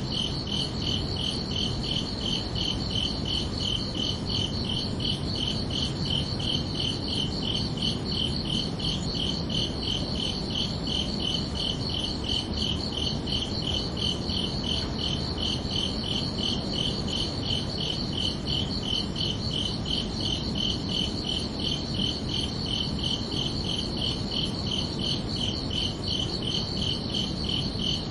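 Crickets chirping in a steady, even rhythm of high-pitched pulses, over a steady low background rumble.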